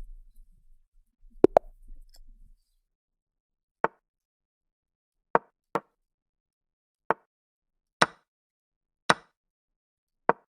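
Online chess move sounds: short, sharp clicks as moves are played in quick succession, a close pair about a second and a half in, then single clicks about once a second.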